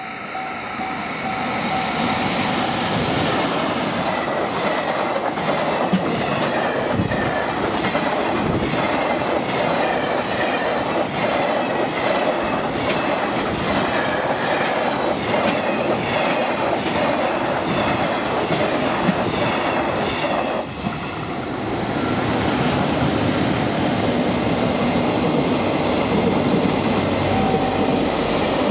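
A train running past close by, its wheels beating a steady, repeated clickety-clack over the rail joints. The sound builds up over the first couple of seconds and dips briefly about 21 seconds in.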